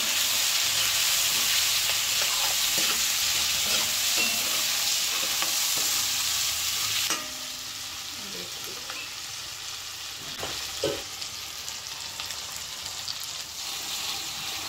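Onion, tomatoes and spices sizzling as they fry in oil in a metal wok, stirred and scraped with a steel ladle. The sizzle drops sharply about seven seconds in and carries on quieter, with a couple of knocks of the ladle against the pan.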